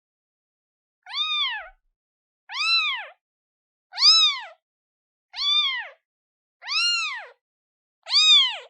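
Newborn kitten, a day old, meowing repeatedly to call its mother: six short high-pitched cries, each rising then falling in pitch, about one every second and a half with silence between.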